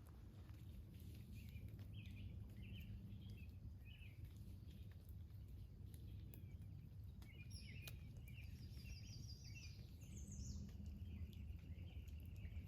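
Faint bird calls and chirps, with a quick trill about eight seconds in, over a low steady background rumble.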